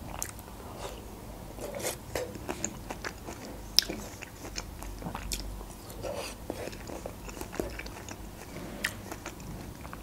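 Close-miked biting and chewing of a pineapple slice, with scattered short mouth clicks. One sharp click a little under four seconds in is the loudest.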